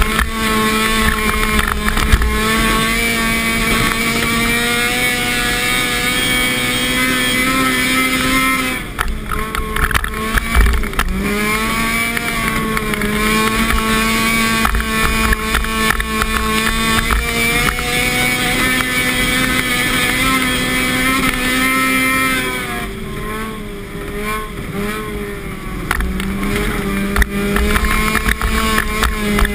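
Car engine heard from inside the cabin, held at a steady high pitch under throttle while the car slides on snow, the revs dropping briefly about a third of the way in and again near the end before rising back.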